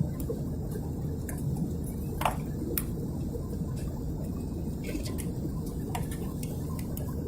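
Steady low rumble of cabin noise inside an Airbus A320 airliner in flight, with scattered light ticks and clicks on top.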